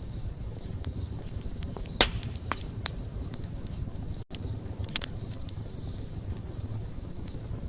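Wood fire burning: a steady low rumble of flames with scattered crackles and pops, the loudest pop about two seconds in. The sound cuts out for an instant about four seconds in.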